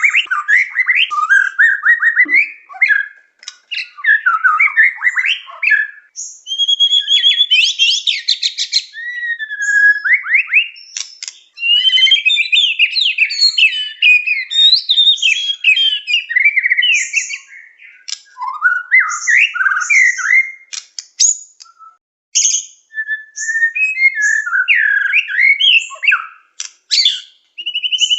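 White-rumped shama (murai batu) singing continuously and energetically, a varied stream of rapid whistles, fast trills and quick rising and falling phrases, with brief pauses about 6, 11 and 22 seconds in.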